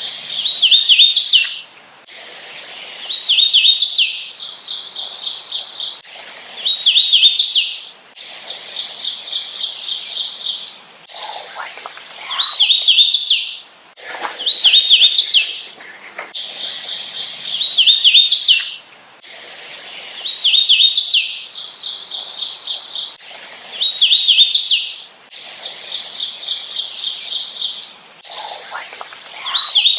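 Hooded warbler singing song after song: clear, whistled, slurred phrases, some made of quick even notes and many ending in a sharp rising note, with short gaps between them.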